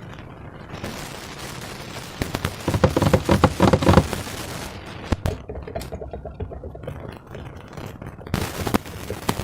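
Slime being squeezed and worked by hand, giving a dense run of rapid crackling pops as air pockets burst, heaviest a few seconds in, then a few single sharp clicks.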